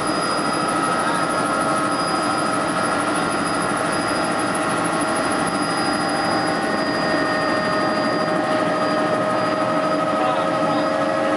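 Helicopter running: a steady loud noise with several steady whining tones through it.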